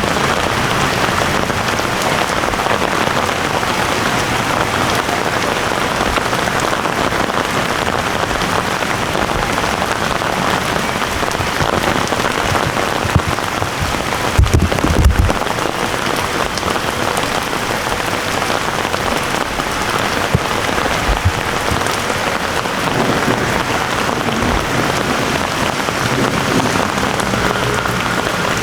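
Heavy rain falling steadily, a dense hiss of drops on the ground. A few short low thumps stand out about halfway through.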